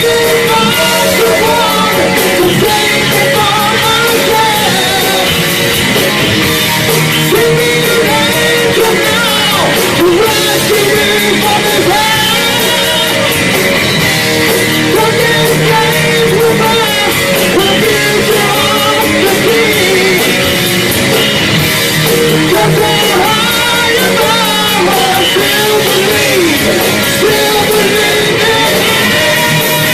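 Live metal band playing a song loud, with a singer's voice over guitars.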